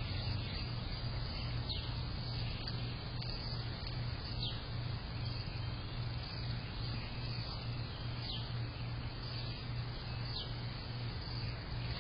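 Short, high, downward-sliding bird call notes repeated about every two seconds, over a steady hiss and low hum.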